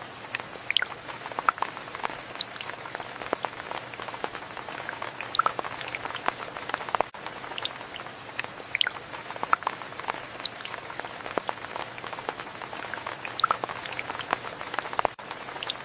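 Steady rain with many separate drops ticking and plinking on a surface over an even hiss. A brief dropout comes about every eight seconds.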